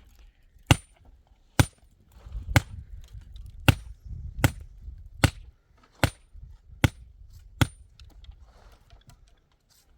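Hammer blows struck at a steady pace, about one a second, nine strikes in all, each with a short metallic ring.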